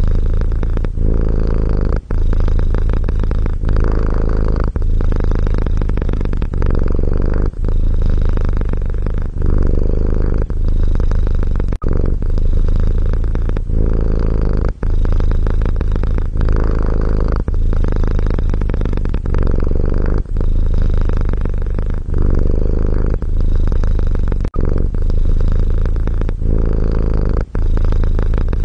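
Domestic cat purring in a steady low rumble that dips briefly every two to three seconds as the cat switches between breathing in and out.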